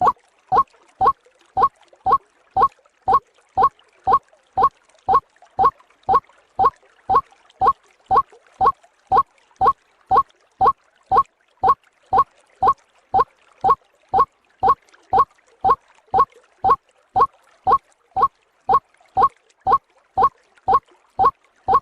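White-breasted waterhen (ruak-ruak) calling: a short, slightly rising note repeated in an even rhythm about twice a second, as a lure call.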